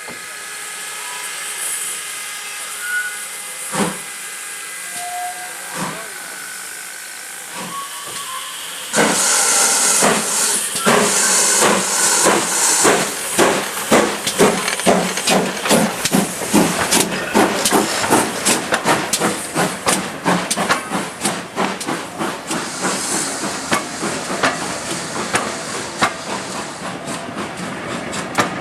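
Steam locomotive hissing steam while standing, then setting off about nine seconds in with a sudden loud burst of steam and sharp exhaust beats that quicken as it gathers speed.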